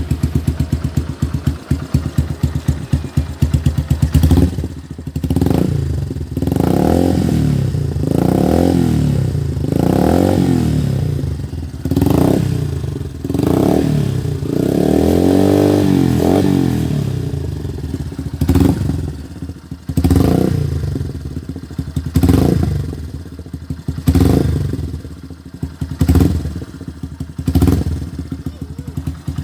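Yamaha Byson's single-cylinder engine running through an aftermarket Akrapovic GP M1-style racing exhaust: idling with an even beat for about four seconds, then revved in a series of throttle blips, one held longer in the middle and the rest short, a second or two apart.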